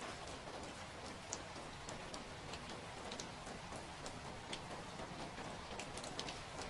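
Steady rain, with single drops tapping at irregular moments.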